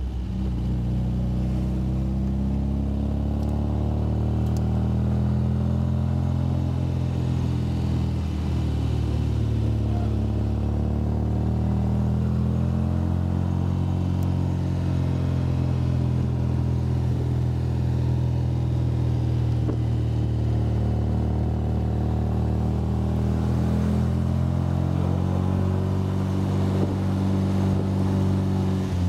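MGA's four-cylinder engine running steadily under load as the car climbs, heard from the open cockpit; the engine note rises and falls gently with the road.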